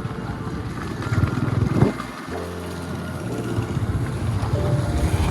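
Motorcycle riding noise, an engine and wind rumbling on the microphone, under background music with held notes.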